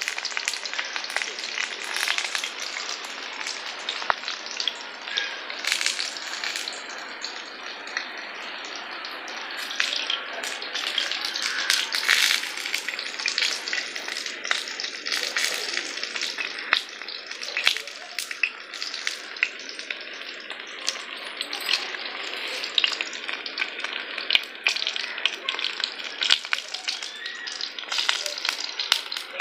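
Banana-leaf-wrapped dosa parcels sizzling in an oiled pan over an open wood fire: a steady hiss with many small sharp crackles throughout.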